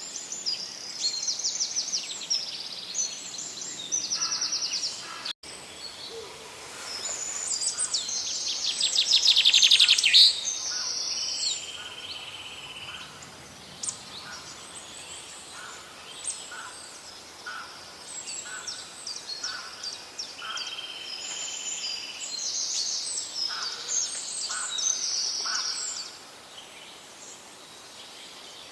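Parrots calling: repeated high-pitched screeches and fast chattering calls, loudest about eight to ten seconds in.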